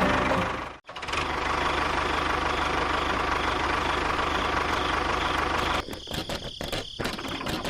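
An engine running steadily. It cuts out sharply just under a second in, runs on steadily again, and then turns choppy and stuttering for the last couple of seconds.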